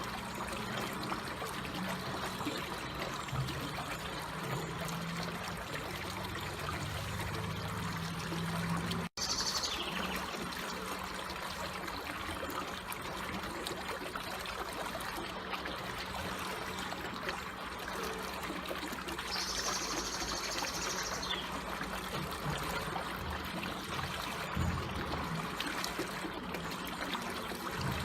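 Water trickling and flowing slowly and steadily. The sound cuts out for an instant about nine seconds in, and two brief high chirps come through, one just after the cut and one around twenty seconds in.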